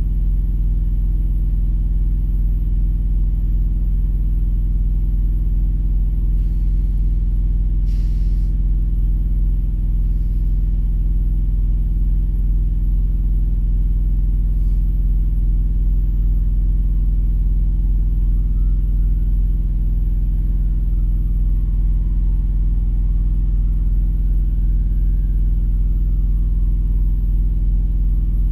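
Steady low rumble of an idling engine, heard from inside the vehicle's cab.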